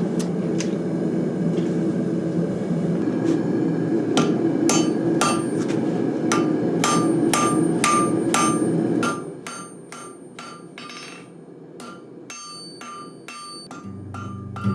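Hand-forging: a hammer striking steel on an anvil, repeated blows about one to two a second, each leaving a metallic ring. A steady low rushing noise runs under the first nine seconds of blows and then drops away.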